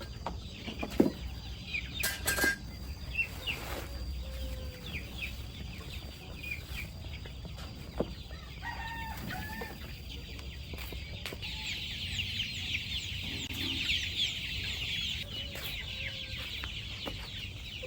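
A flock of chickens clucking and calling, with a few sharp knocks early on and a dense chorus of short, high chirps over the second half.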